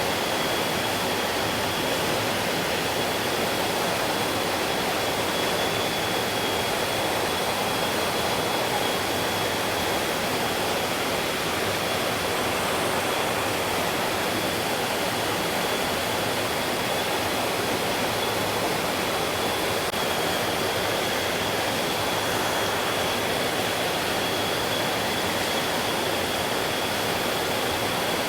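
Mountain stream flowing over rocks: a steady, even rush of water with no change in level, and a thin steady high-pitched tone above it.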